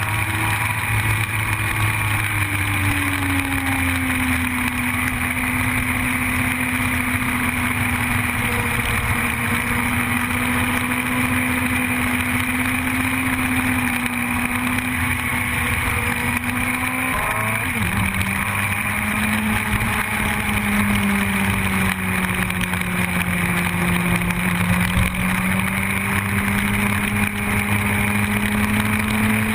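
Yamaha YZF-R1 inline-four sport-bike engine running steadily under way, its pitch drifting slowly with speed. About two-thirds of the way through the note breaks and drops suddenly, then settles lower, as in a gear change.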